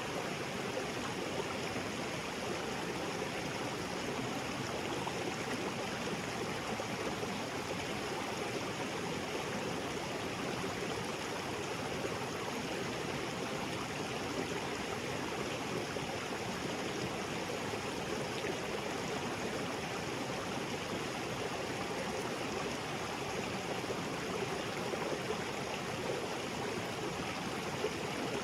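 Small waterfall pouring into a rocky creek, a steady, even rush of water.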